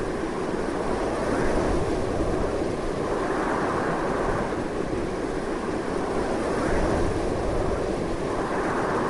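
Strong, continuous wind rushing steadily, rising and easing a little in slow gusts.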